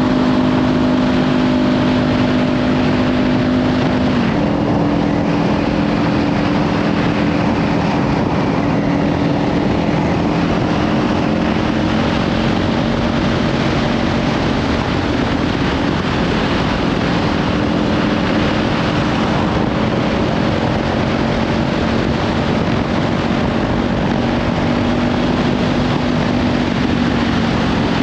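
Kawasaki Ninja 500 parallel-twin engine with a Leovince slip-on exhaust, running steadily at cruising speed, its tone shifting about four seconds in. Heavy wind noise on the helmet or bike microphone.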